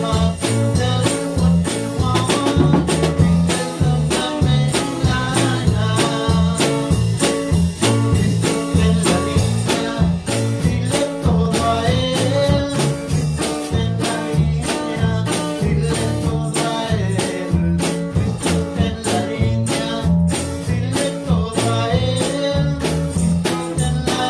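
Live church band playing an upbeat gospel song, with a steady drum beat under the other instruments.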